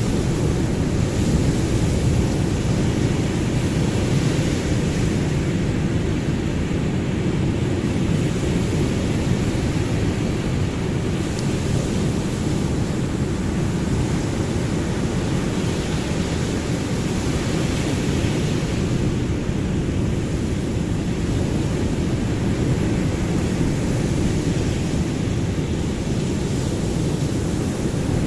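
Ocean surf as a steady, deep rushing noise, with no separate wave crashes standing out; a softer hiss above it swells and fades gently.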